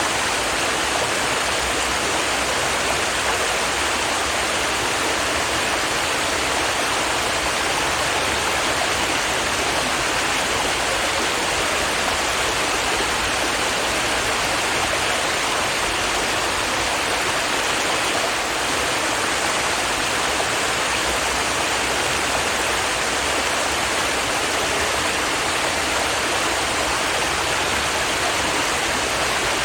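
Stream water running and babbling over rocks in a steady, even rush.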